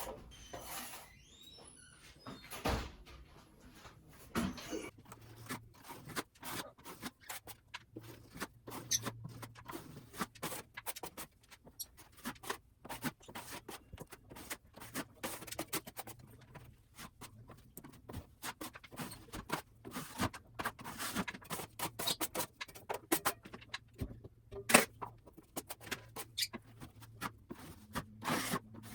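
Hand tool scraping and tapping on a drywall ceiling in many quick, irregular short strokes.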